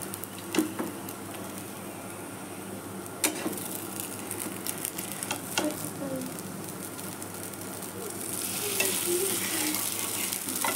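Egg chowmein paratha frying in oil on a non-stick pan, a steady sizzle, with a few sharp clicks of a metal spatula against the pan. The sizzle grows louder near the end.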